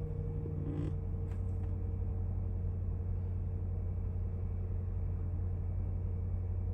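2018 Range Rover's 5.0-litre supercharged V8 idling steadily on a cold start, an even low hum with a faint click or two about a second in.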